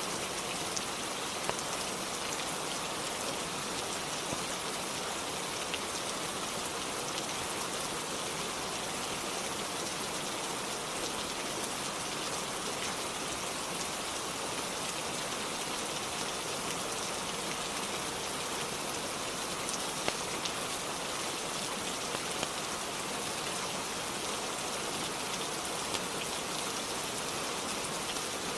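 Steady rain falling, an even hiss with no let-up, with a few sharp ticks scattered through it, the clearest about two-thirds of the way in.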